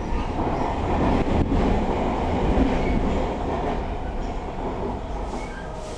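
MARTA rapid-transit train running, heard from inside the passenger car: a steady rumble of wheels on the track. It grows louder in the first half and eases off toward the end.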